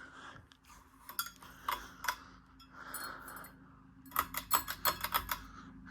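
Small hard clicks and clinks, a few scattered at first and then a quick run of them about four seconds in, over a faint steady hum.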